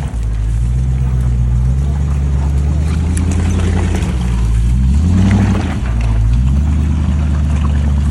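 Range Rover off-roader's engine running hard, its revs climbing about five seconds in and dropping back a second later.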